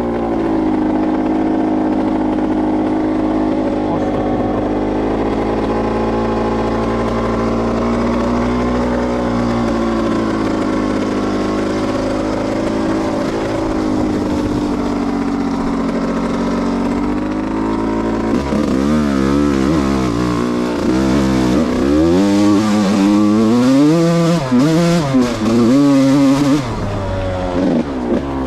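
Yamaha YZ125 single-cylinder two-stroke dirt bike engine running at a steady, slightly wavering note, then from about two-thirds in revving up and down over and over as the throttle is worked.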